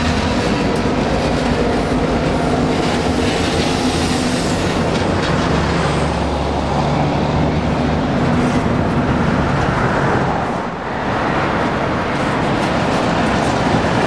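Diesel-hauled freight train passing close by: the steady rumble and clatter of wheels on rail, with the low, even hum of diesel locomotive engines.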